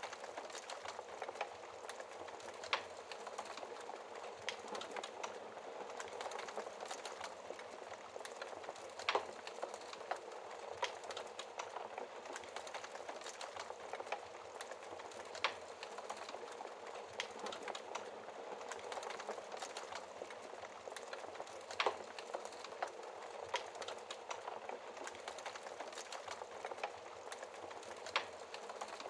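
Wood fire burning with a steady crackle and sharp pops every few seconds.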